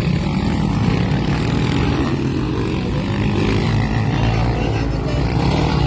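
Motocross motorcycle engines running steadily on the track.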